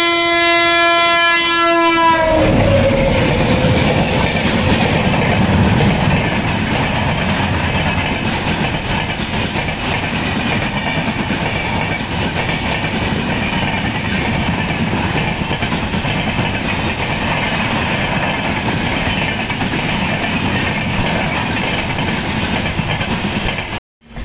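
A locomotive horn sounds as a train approaches, its pitch falling as it reaches the microphone about two seconds in. The coaches then rush past with a steady rumble and clatter, which cuts off suddenly near the end.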